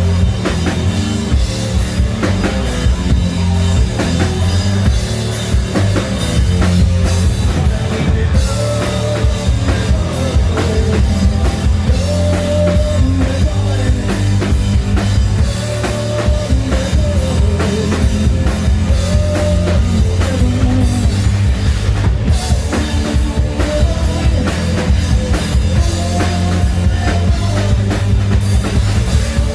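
Hard rock band playing: a steady drum-kit beat with heavy bass and guitars carrying a melody.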